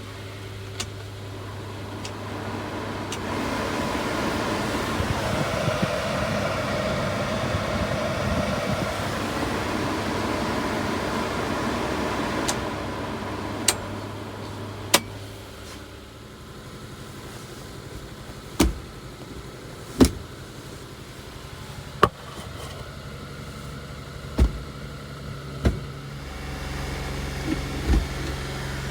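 1989 Suzuki Carry kei truck's small three-cylinder engine running steadily, with a rush of louder noise over the first half. It then drops quieter, and a series of sharp knocks or clunks comes every second or two. Near the end the engine note picks up again.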